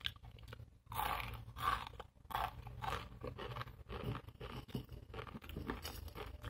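Dry, crispy snack noodles being chewed close to the microphone, in a run of irregular crunches.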